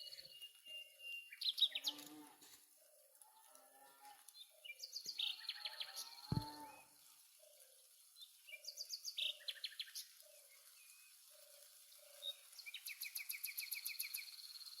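Birds singing. Rapid high trills, each about a second long, come back every few seconds, over a slow, even series of short low notes. There is one sharp knock about six seconds in.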